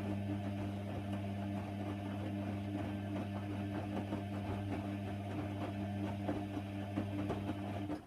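Hoover Nextra HNWL 7146 washer dryer running with a steady hum and light rattling ticks, then cutting off suddenly near the end.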